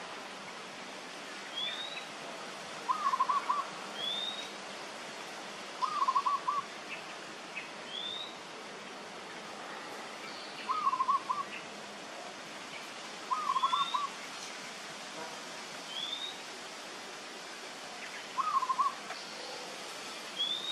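Birds calling repeatedly: a short rising whistle and a quick burst of three or four lower hooting notes, each recurring every two to three seconds.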